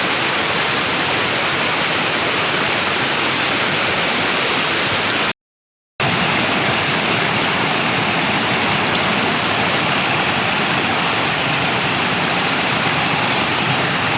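Steady rush of falling water from a waterfall, cutting out completely for about half a second near the middle.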